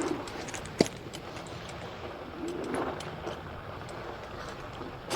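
Ride noise from an e-bike going off-road over rough ground: a steady rush of tyre and wind noise, with a sharp knock just under a second in.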